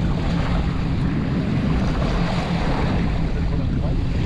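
A fishing boat's motor running steadily under way while trolling, with water rushing past the hull and wind buffeting the microphone.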